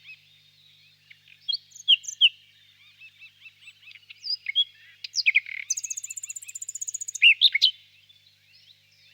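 Nightingale singing among other small birds: varied short whistled and chirping phrases, with a loud, fast rapid-fire trill about two-thirds of the way through.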